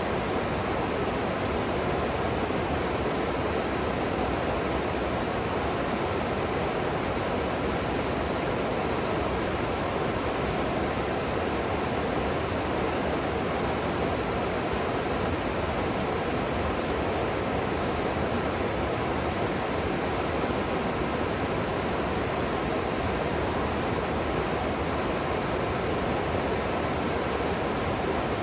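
River water flowing and rushing steadily, an even unbroken hiss of moving water.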